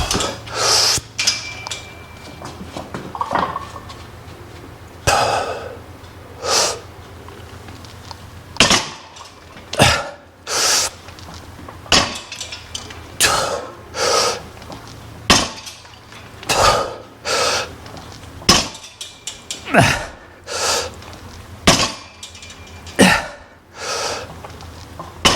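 Hard breathing through a set of barbell pin squats, with a short metallic clank each time the loaded bar is lowered onto the rack's safety pins, every few seconds.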